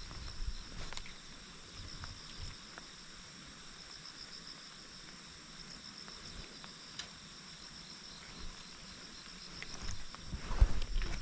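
Insects chirring in a steady high chorus, with a faint pulsing in it. Footsteps on the road at the start and again from about ten seconds in.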